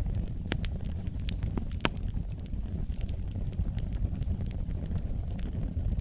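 Wood campfire burning, with irregular sharp crackles and pops over a steady low rumble; a few louder pops come in the first two seconds.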